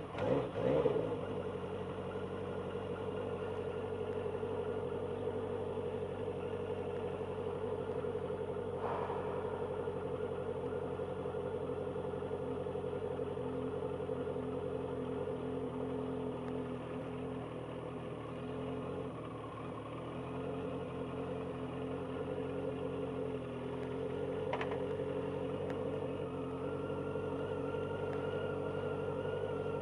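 Motorcycle engine catching at the very start and then idling steadily.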